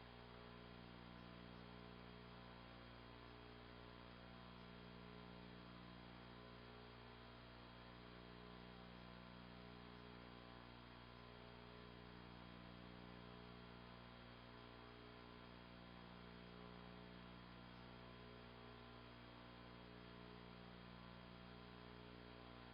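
Near silence with a faint, steady electrical hum, mains hum with its overtones.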